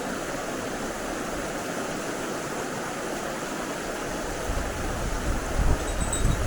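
Mountain stream water rushing steadily over rocks. From about halfway, a low, uneven buffeting on the microphone joins it.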